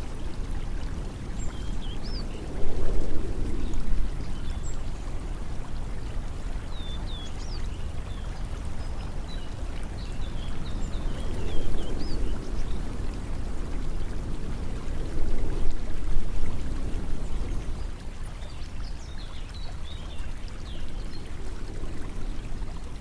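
Running water, a steady rush that swells louder every few seconds, with scattered short high chirps of small birds.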